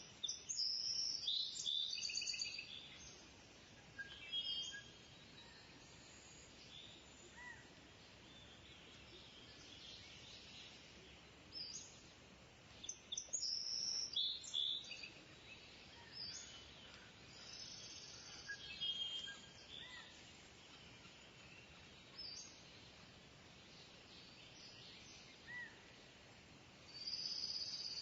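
Kingfisher calling: clusters of shrill, high, rapid calls, loudest in the first few seconds, again around the middle and at the very end, with quieter chirps and a faint outdoor hiss in between.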